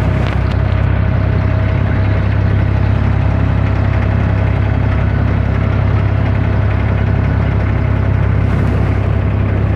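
The inboard diesel engine of a Dubai Creek abra running at a steady pace underway, a loud, even low drone.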